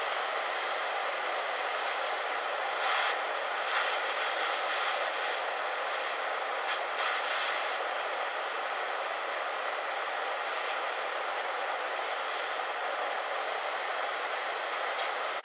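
Steady rushing noise with a few brief louder swells about three, four and seven seconds in.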